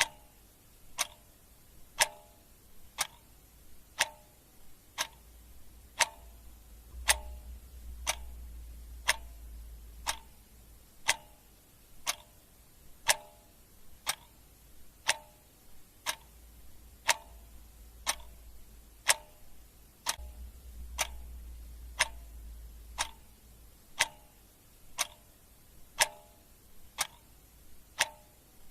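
Clock ticking steadily once a second, the ticks alternating a little in strength and tone like a tick-tock.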